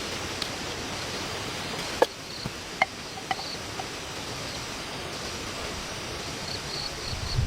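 Outdoor woodland ambience: a steady hiss with faint, repeated high insect chirps, broken by a few sharp clicks or snaps about two to three seconds in.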